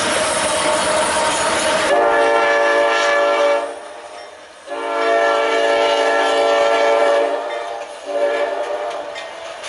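Freight train rolling with steady wheel noise, then a diesel locomotive's multi-chime air horn sounding two long blasts and a short one, the start of the grade-crossing signal.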